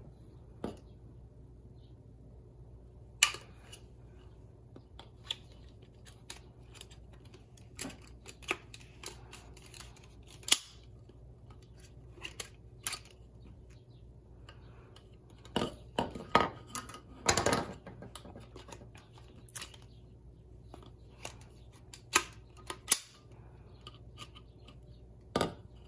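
Irregular clicks, taps and clatter of a pooper scooper's metal tubes, metal clips and plastic connectors being handled and fitted together, with a few sharper knocks.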